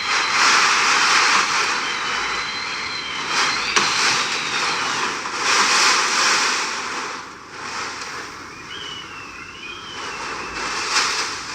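Hurricane wind blowing hard with rain, swelling and easing in gusts, dipping about seven seconds in. A thin, high whistle wavers in pitch over it early on and again near the end, the wind's cat-like scream.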